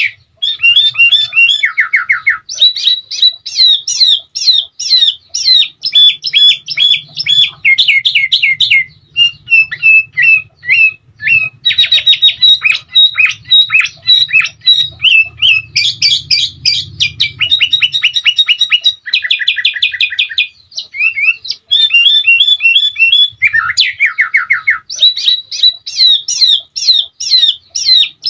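Sooty-headed bulbul singing a loud, near-continuous song of quick chattering phrases and fast trills, broken by short pauses.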